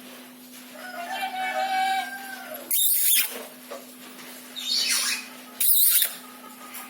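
Pet green parakeet calling: one drawn-out call, then three short, harsh screeches.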